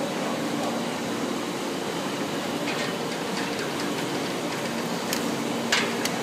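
Hook-and-loop tape pressing machine running with a steady mechanical hum, a few light clicks, and a short, sharp hiss of air near the end.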